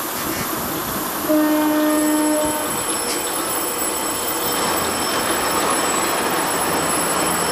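A train horn sounds a single blast of about a second, a little over a second in. Then the train rolls, with a thin high-pitched squeal of steel wheels over a steady rolling rumble.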